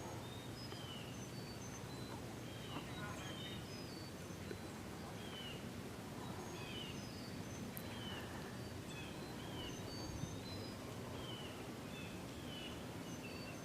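A flock of birds calling, with short chirps coming every second or so over a faint steady background rumble.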